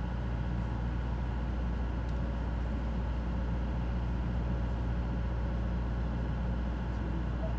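A cruising sailboat's engine running steadily while motoring under way, a constant low drone with no change in speed.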